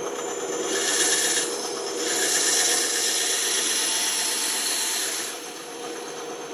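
Band saw cutting wood in two passes, a short one about a second in and a longer one from about two seconds to past five seconds. After that the saw runs on without cutting.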